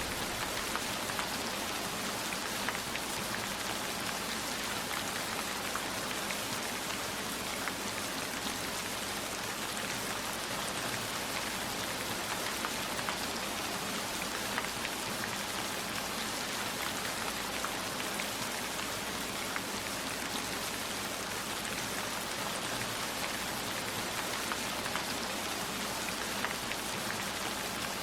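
Steady rain falling, with many separate raindrops ticking through the wash.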